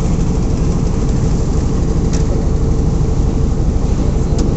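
An engine running steadily: a loud low rumble with a constant hum, and a couple of faint ticks.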